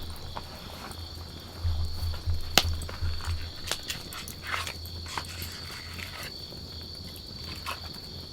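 Wood campfire crackling with scattered irregular pops, the sharpest about two and a half seconds in, over a low rumble. A steady high insect trill runs underneath.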